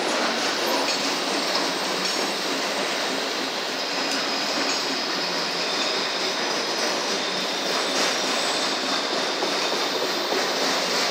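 Autorack freight cars of a CSX train rolling steadily past close by, a continuous noise of wheels on rail. About four seconds in, a thin high steady squeal from the wheels joins in.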